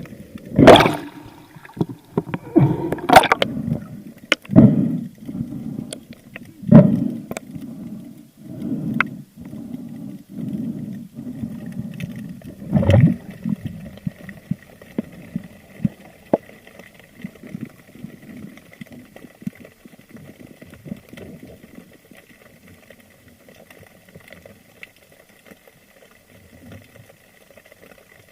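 Water splashing and gurgling around a spearfisher's camera, in irregular loud bursts through the first half. After that it settles into quieter, steady underwater ambience with a faint thin whine.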